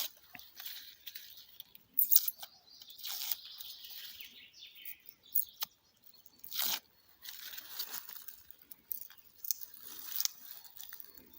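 Thin outer birch bark being peeled and torn off a birch trunk by hand: irregular dry tearing and crackling, with a few sharper rips.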